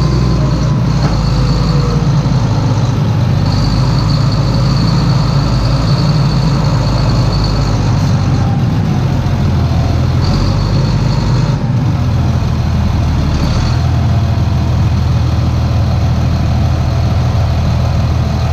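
Claas Xerion 3800 tractor's diesel engine running steadily, its low note shifting slightly a few times, with a thin high whine that comes and goes.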